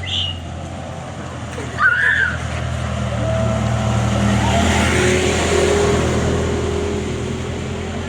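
A motor vehicle passing close by: a steady low engine hum with road noise that swells to a peak about five seconds in and then eases off. Brief high voices of people call out near the start and again about two seconds in.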